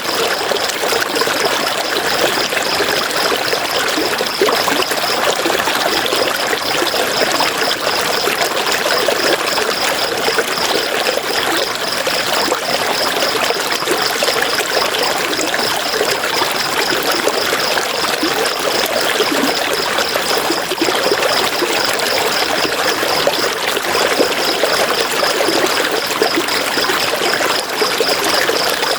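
River water rushing and splashing over rocks, a steady, unbroken wash. Over it runs a high, rapidly pulsing trill that stops briefly twice.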